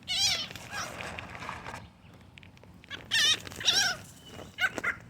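Birds calling as they are fed: about four short, high, wavering cries, one right at the start and three more in the last two seconds.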